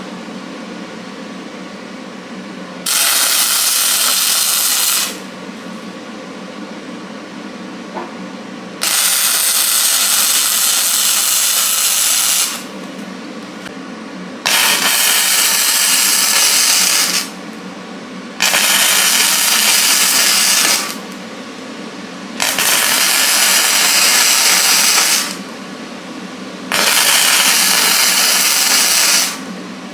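Electric arc welding a steel bracket in short runs: six crackling, hissing bursts of a few seconds each, stopping and restarting, with a steady low hum in the pauses between.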